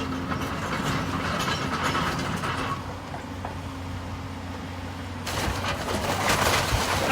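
Heavy demolition machine running steadily while tearing down brick walls, with scraping and clattering of bricks and debris. The clatter swells about a second in and again louder just past five seconds.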